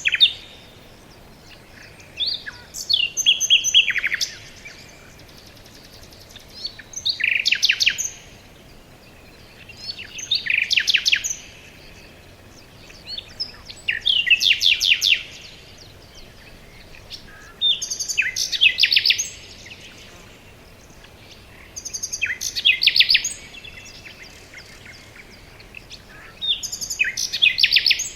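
A songbird singing the same short phrase of rapid, high notes over and over, about every four seconds, with faint steady background noise between phrases.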